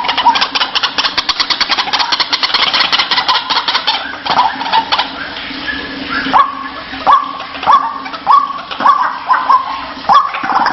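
White-breasted waterhen calling: a fast, rattling run of pulses, then from about four seconds in a series of harsh 'kruak' notes, roughly one and a half a second.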